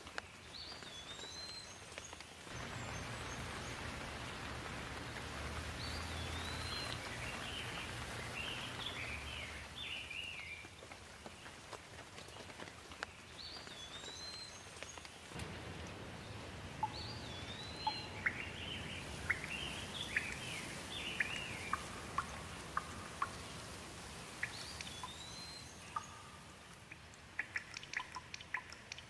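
Steady rain with two long low rolls of thunder, one starting about two seconds in and another about halfway through. Birds call over it throughout, repeating a short hooked whistle and bursts of chirps. Close sharp drips patter near the end.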